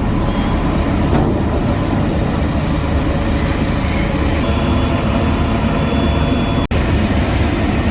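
Heavy diesel construction machinery running steadily at an asphalt paving site, with a momentary break in the sound about two-thirds of the way through.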